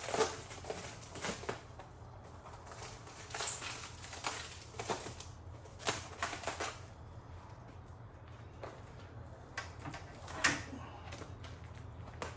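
Scattered clicks, knocks and short rustles of packaging and small parts being handled, the sharpest about a third, a half and most of the way through, over a faint steady low hum.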